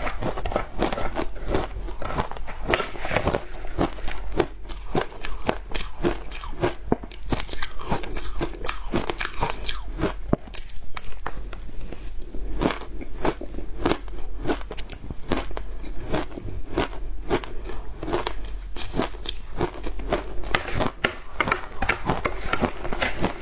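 Frozen matcha ice being bitten and chewed, close to the microphone: a continuous run of sharp crunches, several a second.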